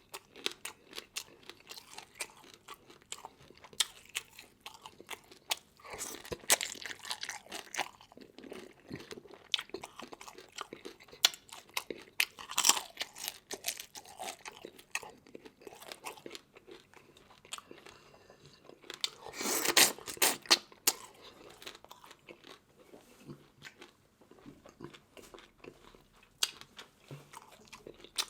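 Close-up eating sounds of someone biting and chewing seafood such as crab and fish bone, a steady string of sharp crunches with a longer, louder spell of crunching about twenty seconds in.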